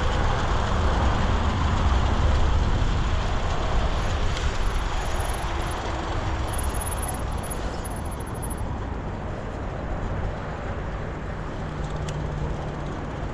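Wind rushing over the microphone, with tyre and road noise, from riding an electric bicycle. It eases off over a few seconds as the bike slows for a U-turn.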